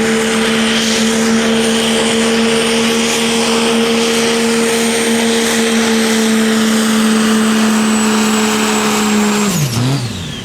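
A pulling vehicle's engine running flat out at a steady, unchanging pitch, with a steady high whine and heavy noise over it. Near the end the pitch drops sharply as the engine comes off the throttle.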